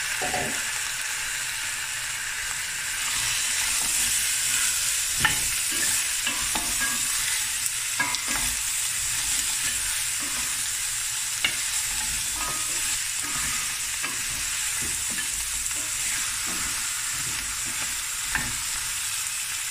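Beef bones and chopped onions sizzling in hot oil in a stainless steel pot, stirred and turned with a wooden spoon. A steady frying hiss runs throughout, with an occasional knock as bones and spoon hit the pot.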